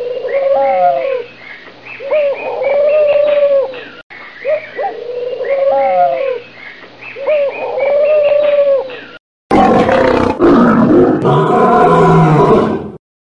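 Rock pigeon cooing: a low rising-and-falling coo phrase repeated about every two seconds. About nine and a half seconds in, it cuts to a lion's loud, rough roaring, which stops abruptly near the end.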